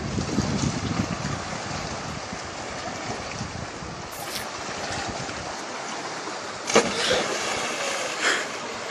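Sea waves washing with wind buffeting the microphone, a steady noisy rush. Two sudden loud bursts of noise come near the end.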